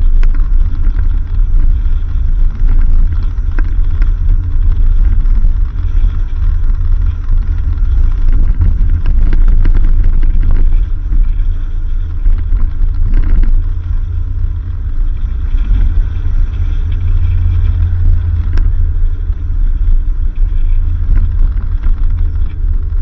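A 4x4 vehicle driving along a rough dirt road: a steady, loud low rumble of engine and tyres, with a few sharp knocks from the road surface.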